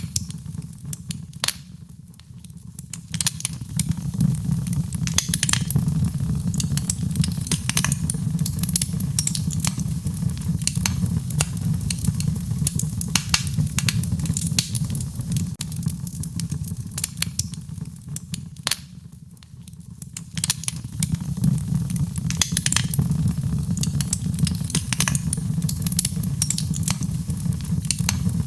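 Wood fire in a fireplace crackling, with frequent sharp pops and snaps of varying loudness over a steady low rumble of the flames. The crackling eases off briefly twice, about two seconds in and again about nineteen seconds in.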